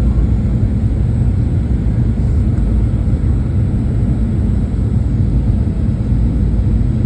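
Steady low rumble of a Boeing 737's cabin noise, its engines and rushing air heard from inside the passenger cabin.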